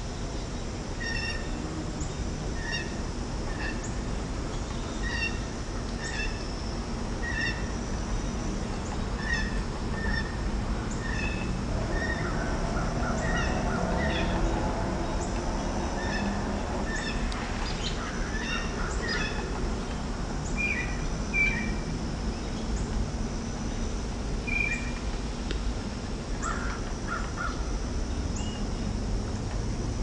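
Wild birds calling in spring. One bird repeats a short call a little more than once a second through the first half, then fades out. Other birds' calls and a few brief trills are scattered through the rest.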